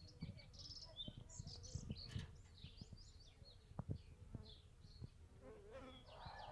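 Small birds chirping and twittering in short, varied calls, over faint low irregular thumps.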